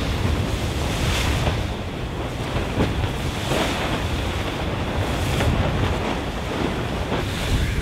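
Wind buffeting the microphone over the rush of sea water past the hull of a Volvo Ocean 65 racing yacht under sail, with a surge of water every second or two.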